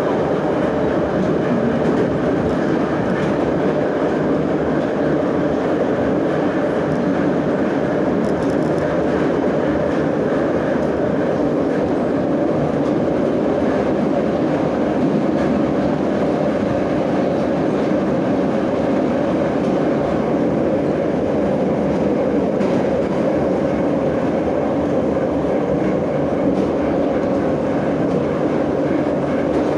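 Moscow Metro 'Nomernoy' (81-717/714) train running at speed through a tunnel, heard from inside the car as a steady, loud rumble of wheels and running gear.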